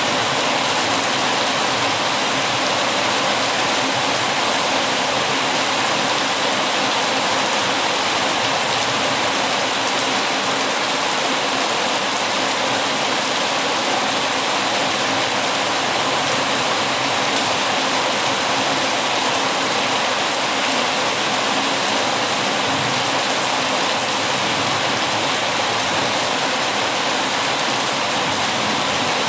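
Heavy rain falling steadily: an even hiss that holds the same level throughout, with no breaks or distinct knocks.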